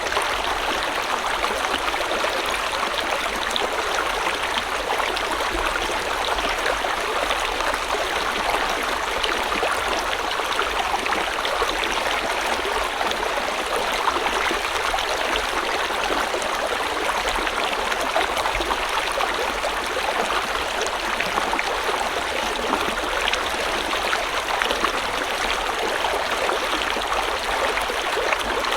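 A river flowing steadily: an even, continuous rush of running water that stays at one level throughout.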